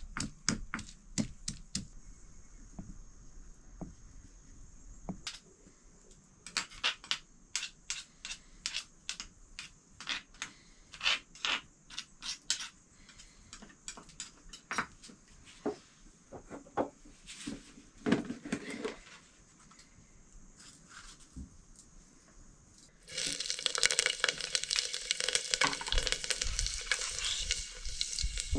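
Kitchen clatter of scattered sharp knocks and taps from utensils and pans. About 23 seconds in, a sudden loud frying sizzle starts as food goes into hot oil in the pan and keeps going.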